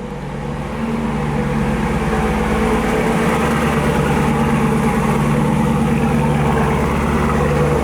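Car engine running after just being started, growing louder over the first second and then holding steady, with a change in its low note about three seconds in.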